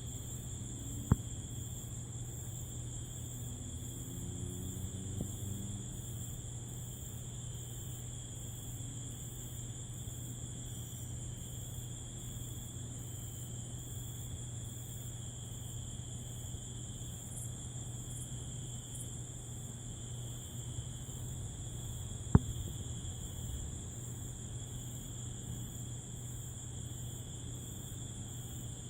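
Nighttime insect chorus of crickets and katydids trilling steadily at two high pitches, over a low steady hum. Two sharp clicks stand out, about a second in and again some twenty seconds later.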